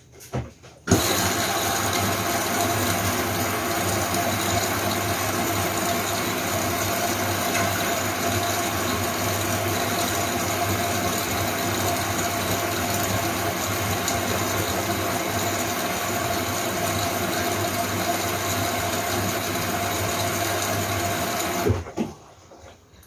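Fully automatic washing machine running, its motor giving a steady hum and whine that starts abruptly about a second in and stops abruptly near the end.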